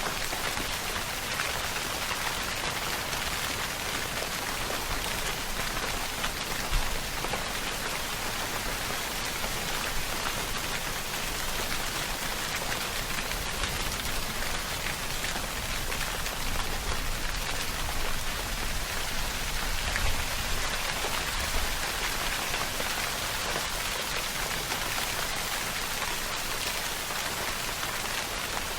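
Steady rainfall: a dense, even hiss of many drops hitting a surface. A few single louder hits stand out now and then.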